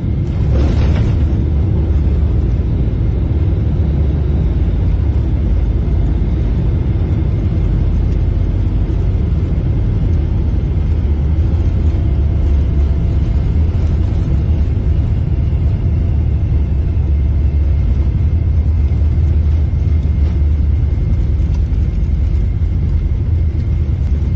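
Steady low rumble of an airliner's engines and airflow heard inside the passenger cabin during landing, with faint steady whining tones over it. A short burst of hiss about a second in.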